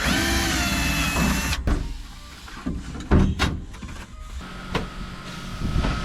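Small electric motor or power tool whirring for about a second and a half, followed by scattered knocks and clunks of disassembly work.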